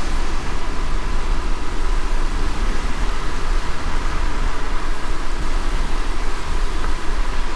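Car driving in light rain: a steady low road rumble under an even hiss of rain and tyres on wet road.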